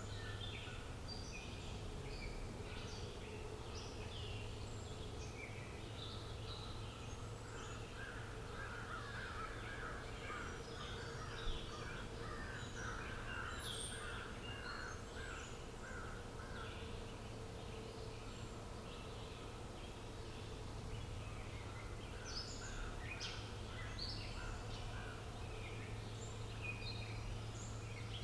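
A chorus of small birds chirping and singing, with a rapid run of repeated notes in the middle, over a steady low hum. A single sharp click about eleven and a half seconds in.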